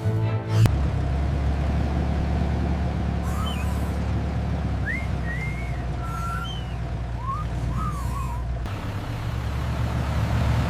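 Heavy vehicle engine running steadily with a low rumble, with a few short, high chirps over it.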